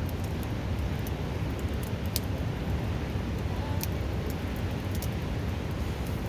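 Steady rushing of a river close by, with a few sharp crackles and pops from burning firewood, the clearest about two seconds in and near four seconds.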